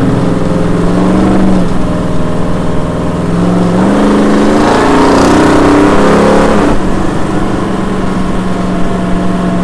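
Twin-turbo 1964 Ford Galaxie's engine, heard through an unmuffled 4-inch stainless side exhaust, running loud at a steady cruise. About three and a half seconds in, it pulls harder and its pitch rises for about three seconds, then it eases back to a steady cruise.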